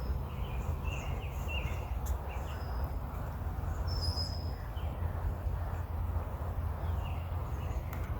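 Wild birds chirping and calling now and then, short high notes and brief whistles, over a steady low rumble.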